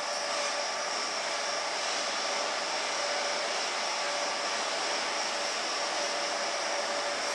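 Electric train at the station: a steady hiss of motor and cooling-fan noise with a few held whining tones, even throughout.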